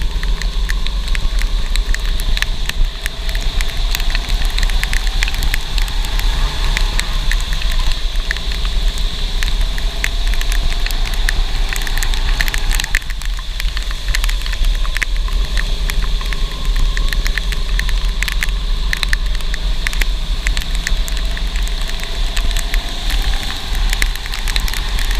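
Go-kart engine running on a wet track, its pitch climbing steadily, dropping sharply about halfway, then climbing again. Over it is a steady crackle of rain and a low rumble of wind on the microphone.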